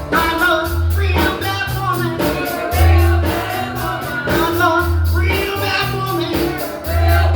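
Live blues band playing a song: a bass line of repeated low notes and drums with steady cymbal strokes under a lead melody line.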